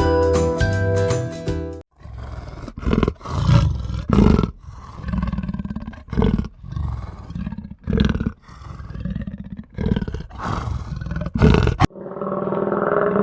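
A big cat roaring: a run of about a dozen short, deep roars, roughly one a second. Jingly music plays for the first two seconds and starts again near the end.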